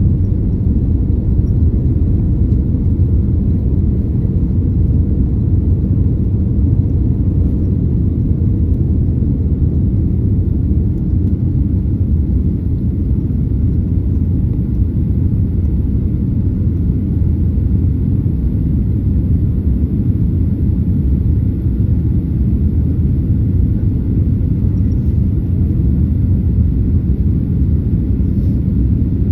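Boeing 787 airliner during its takeoff: a loud, steady, deep rumble of engines and rolling airframe that holds unchanged throughout.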